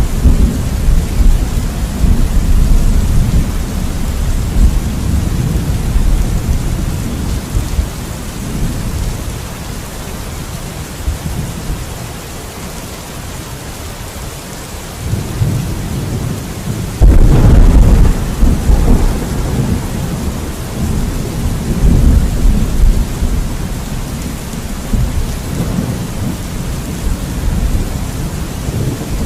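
Steady heavy rain with rolling thunder: a deep rumble fading out over the first ten seconds or so, then a sudden loud thunderclap about two-thirds of the way through, followed by rumbling that rolls on more quietly.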